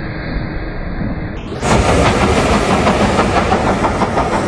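Steam-hauled train passing: its carriages' wheels clatter in a fast, even rhythm over the rails. The sound jumps suddenly louder about a second and a half in.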